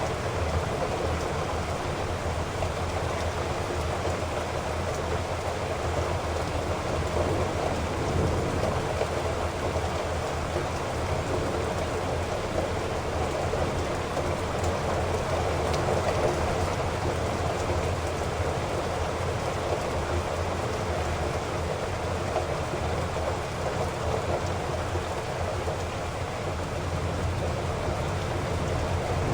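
Heavy rain falling steadily, an even, dense hiss of drops with no breaks or single loud events.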